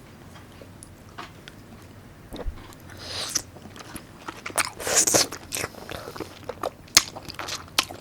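Close-miked mouth sounds of a person chewing a large bite of raw salmon dipped in seafood sauce, with wet clicks and smacks. The chewing starts about two and a half seconds in.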